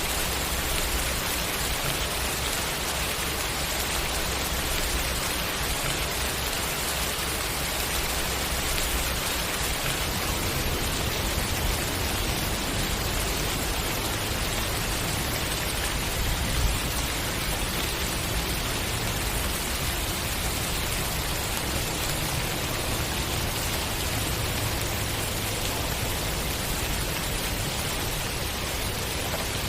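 Steady rainfall, an even hiss of drops on surfaces, with a faint low rumble underneath. A small bump in loudness comes about halfway through.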